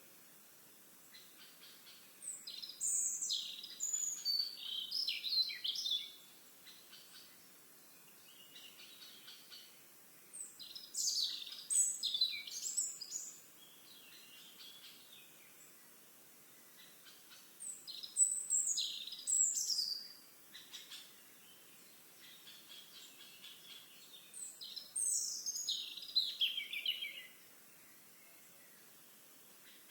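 A songbird singing four intricate phrases of about three seconds each, one every seven seconds or so, the last one ending in a falling run of notes, with faint chirps in between.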